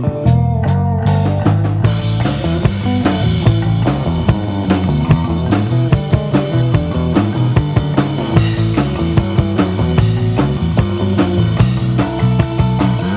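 Live rock band playing an instrumental passage: drum kit keeping a busy beat under guitar and bass.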